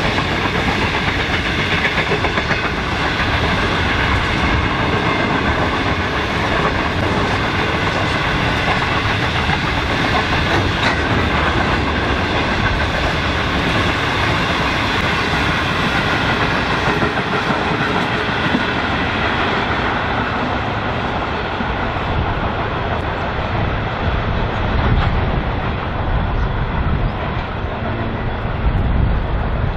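Freight train of grain hopper wagons rolling past close by, the wheels clattering rhythmically over the rail joints in a steady rumble.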